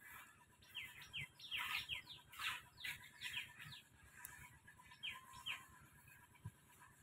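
A bird calling: a quick series of short, downward-sliding chirps over about three seconds, then two more a little later.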